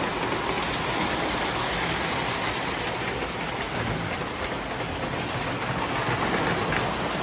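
Several model trains running on a home layout: a steady rolling noise of wheels on track.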